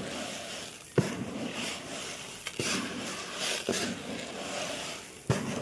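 Dry mixed pigeon-feed grain with mustard seed being stirred by hand, rustling and scraping in uneven surges, with three sharp knocks along the way.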